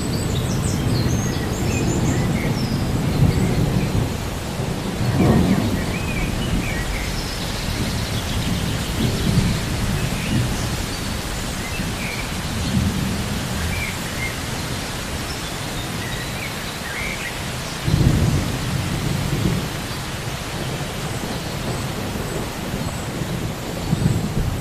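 Steady rain with rolling thunder, the rumbles swelling several times, most sharply about five seconds in and again near eighteen seconds.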